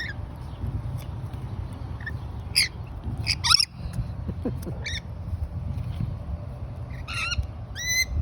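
Parrots giving several short, high squawks at irregular intervals over a steady low rumble.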